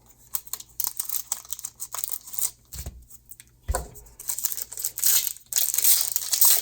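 Foil wrapper of a trading card pack crinkling and being opened, with crackly handling of the cards, two dull thumps about halfway through and denser crinkling near the end.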